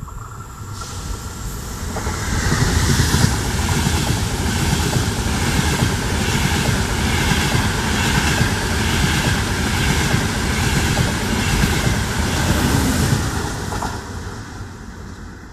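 Frecciarossa high-speed train passing: a rush of wheel and air noise builds, holds loud with a regular beat of wheels over the track about one and a half times a second, then fades as the train moves away near the end.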